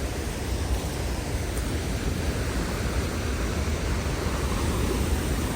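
Waterfall: a steady rush of falling water with a deep rumble underneath.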